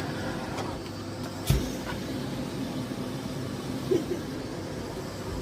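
Miele Blizzard CX1 Cat & Dog PowerLine bagless cylinder vacuum cleaner running steadily, with a single knock about one and a half seconds in.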